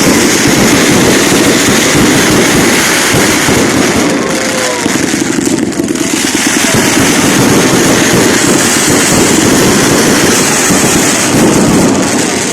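Fireworks salute: a loud, unbroken barrage of crackling bangs that thins briefly about halfway through.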